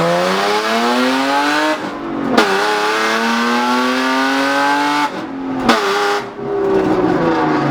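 Straight-piped BMW E36 (no muffler) accelerating hard, its engine note rising through the gears with two upshifts, each followed by a drop in pitch and another climb. Heard from inside the cabin, very loud.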